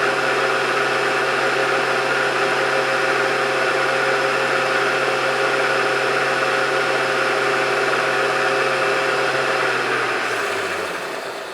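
Milling machine spindle and motor running steadily with a hum and a whine, then switched off and winding down about ten seconds in.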